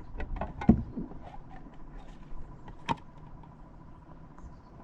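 Scattered knocks and clicks of a crappie and gear being handled in a kayak while the fish is laid on a measuring board, the sharpest about two thirds of a second in and another about three seconds in.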